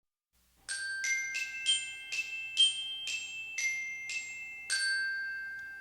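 A short intro jingle of bright struck notes on tuned mallet percussion: about ten notes in a simple tune, the last one ringing on and fading away.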